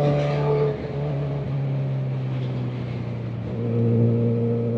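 Kawasaki Ninja ZX-4RR's inline-four engine heard while riding. The steady note drops in pitch about a second in, then grows louder again with throttle about three and a half seconds in.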